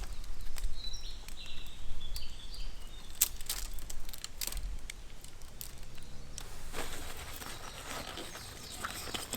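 Outdoor ambience with a small bird chirping several short notes about a second in, amid scattered sharp clicks and knocks and a faint low rumble.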